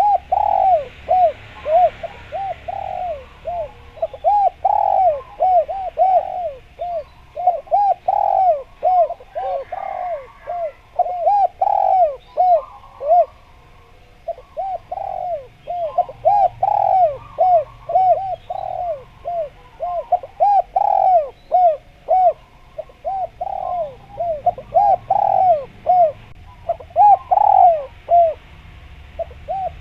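Spotted dove (derkuku/tekukur) cooing vigorously: long runs of short, low coos, each note rising and falling in pitch, repeated phrase after phrase with a brief lull about halfway. Faint chirps of small birds sound higher above.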